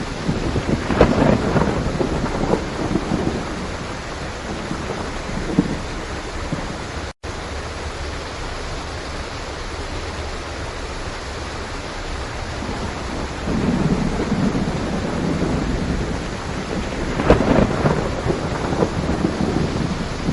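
Steady heavy rain with rolling thunder: one rumble about a second in, and another that builds from about thirteen seconds and peaks near the end. A split-second gap in the sound about seven seconds in.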